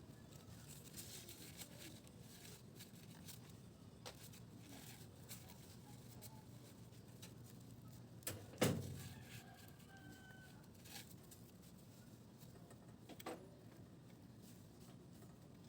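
Faint scattered clicks with one sharp knock a little past the middle and a lighter one near the end.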